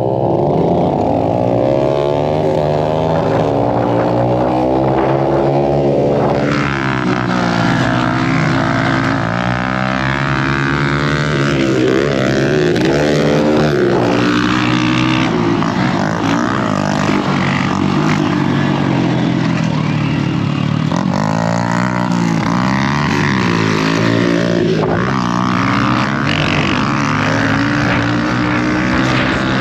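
Dirt bike engine running hard on a motocross track, its pitch climbing under throttle and dropping back several times as the rider shifts and backs off.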